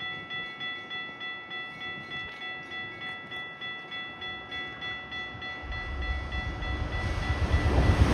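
Railroad grade-crossing bell ringing steadily, about two to three strokes a second, while a train approaches: its rumble comes in about six seconds in and keeps growing louder.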